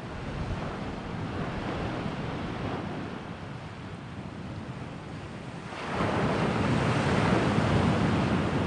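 Sea waves washing in, with a bigger, louder surge of surf about six seconds in.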